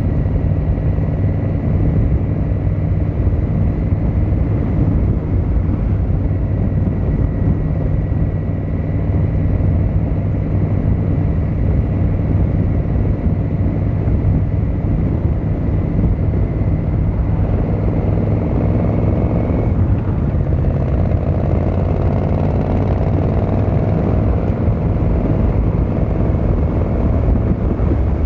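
Yamaha XVZ1300 Royal Star's V4 engine and exhaust while riding. It runs steadily, then rises in revs under acceleration, with a gear change about two-thirds of the way in, and pulls up again through the next gear.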